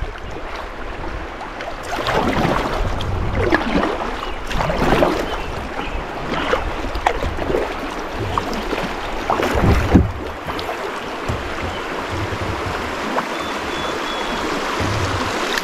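Kayak paddle splashing in the water, several uneven strokes, over the steady rush of a shallow, rocky river current.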